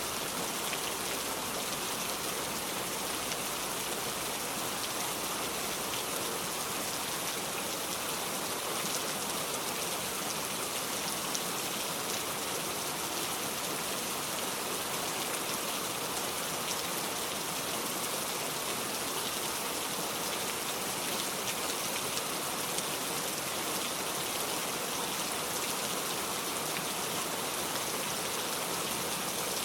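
Steady rain falling, an even hiss of drops on a surface with no let-up or thunder.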